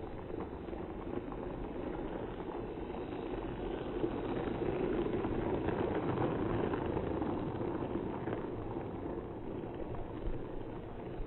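Toy train running along its track: a steady rumbling hum of motor and wheels that grows louder a few seconds in and eases off near the end.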